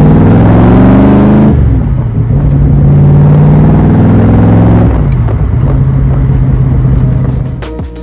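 Roush 427SR V8 of a Cobra replica running loud through its side pipes under acceleration. Its pitch climbs, falls sharply about a second and a half in, holds fairly steady, falls again about five seconds in, then fades near the end.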